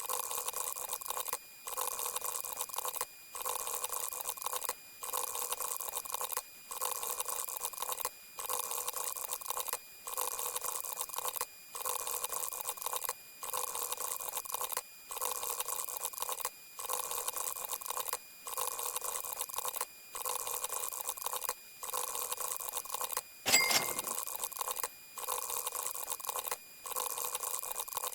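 A short noisy sound effect played over and over, each play lasting about a second and a half with a brief gap between, steady tones running through it. About 23 seconds in comes a sharp click with a short beep, the loudest moment.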